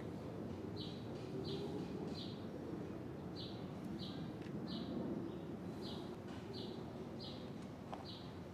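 A bird chirping over and over, a short high note about every two-thirds of a second, over a steady low background rumble.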